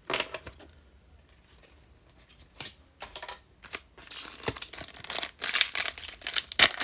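Foil wrapper of a trading card pack crinkling and tearing as it is opened, in dense crackly bursts from about four seconds in, after a few light clicks of handling.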